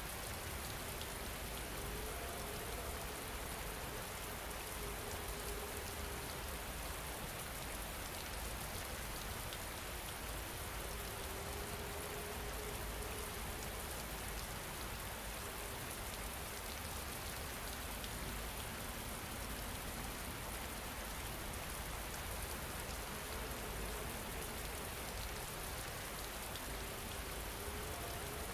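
Steady rain falling. A faint soft tone rises now and then under the rain and fades again.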